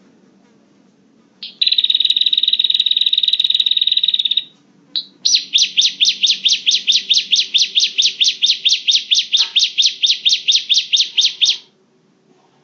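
Prinia (prenjak) lure call: a loud, fast buzzing trill for about three seconds, then after a short break a long run of sharp repeated notes, about five or six a second, that stops about a second before the end.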